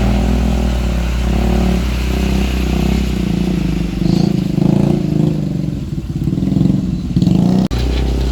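Motor vehicle engines running close by, a steady low drone with engine note swelling and pulsing about halfway through, then a sudden brief drop-out near the end.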